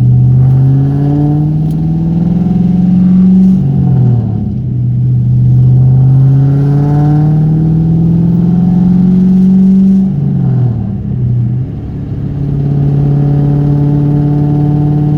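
1998 Mustang SVT Cobra's 4.6-litre DOHC V8 accelerating through the gears: the engine note climbs, drops at an upshift about three and a half seconds in, climbs again, drops at another upshift about ten seconds in, then holds steady at cruising revs.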